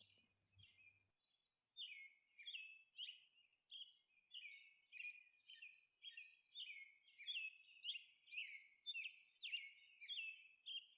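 Faint bird chirping: short, falling chirps repeated about two a second, starting about two seconds in.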